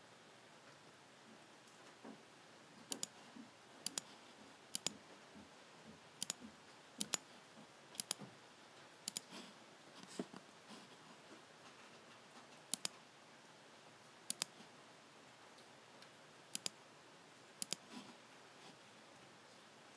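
Logicool (Logitech) G7 computer mouse button being clicked: about a dozen sharp clicks at irregular gaps of one to two and a half seconds, many heard as a quick press-and-release pair.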